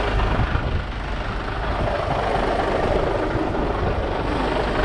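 Steady low rumble of a heavy lorry's diesel engine running at idle, with road noise that swells in the middle as traffic passes.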